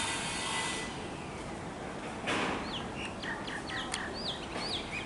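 Birds chirping: a string of short, quick sweeping calls that starts a little over two seconds in, over a steady background hiss.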